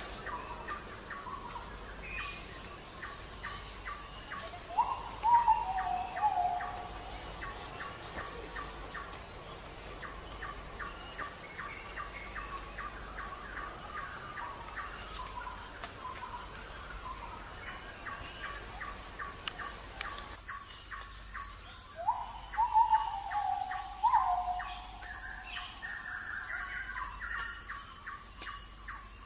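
Birds calling in open country, with a rapid run of ticking chirps throughout and two louder calls that rise and then fall in pitch, about five seconds in and again after about twenty-two seconds. A steady high whine sits under it all.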